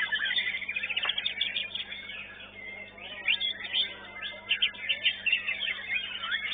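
White-rumped shamas (murai batu) singing over one another in quick, overlapping chirps, trills and short whistles.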